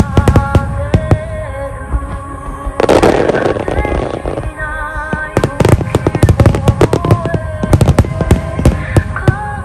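Aerial fireworks bursting in rapid, irregular succession, many sharp bangs close together over music with a melody. About three seconds in, a dense hissing crackle lasts for over a second.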